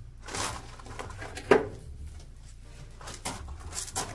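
A gloved hand rubbing a damp cob plaster wall to smooth out cracks, in short scuffing strokes, with a sharp knock about one and a half seconds in.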